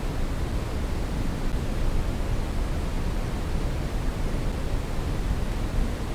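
Brown noise: a steady, even hiss weighted toward the low end, like a deep rumble, with no changes or events.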